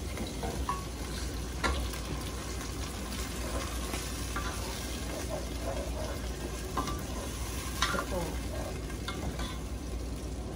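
Marinated chicken livers sizzling as they fry in a pot with sautéed onion, garlic and ginger, stirred with a spatula that scrapes and clicks against the pot. A few sharper knocks stand out, the loudest near the start and again about three-quarters of the way through.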